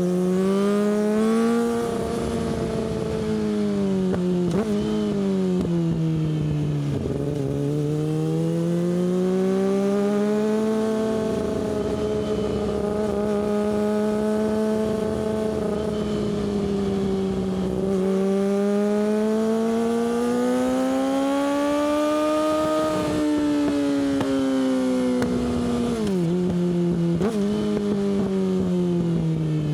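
Yamaha R6's inline-four engine through an Akrapovic exhaust, heard on the move. Its pitch rises and falls slowly several times as the throttle is opened and eased, then drops quickly near the end.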